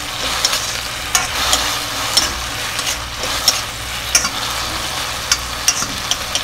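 Fried potato strips and onions in sauce sizzling in a kadhai while a steel spatula stirs them, with repeated sharp clicks of the spatula against the pan about twice a second over a steady hiss.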